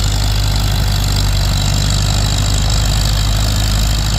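Antique tractor engine running hard and steady under full load while pulling the weighted sled down the track.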